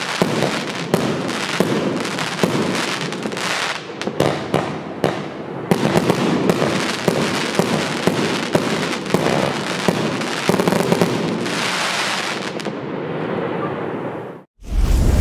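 An 80-shot 30 mm fireworks compound cake firing a rapid, dense barrage of shots mixed with crackling stars. Near the end the shots thin out into a crackle that dies away, then the sound stops abruptly.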